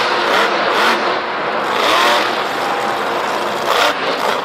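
Monster truck engine running hard and revving, in surges over a dense roar.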